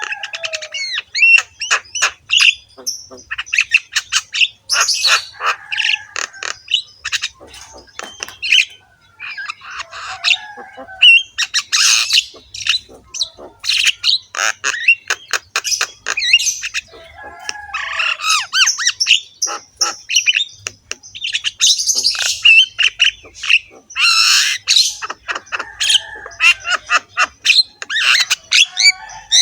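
Javan myna (jalak kebo) singing without pause: a rapid jumble of harsh, rasping notes, clicks and short whistles.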